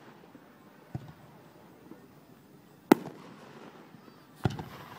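Aerial fireworks shells bursting in the sky: three booms, a softer one about a second in, the loudest and sharpest near the middle, and another near the end that trails off.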